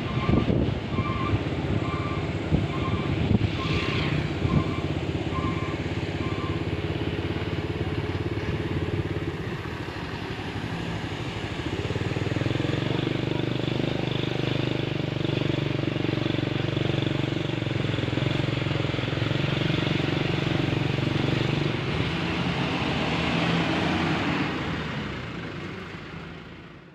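Truck engine running steadily, with a regular electronic beep repeating about every two-thirds of a second for the first six seconds or so. The engine note shifts and grows a little louder about twelve seconds in, then the sound fades out at the end.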